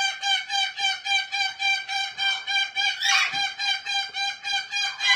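A parrot calling over and over in a fast, even rhythm, about four calls a second, all on one steady pitch.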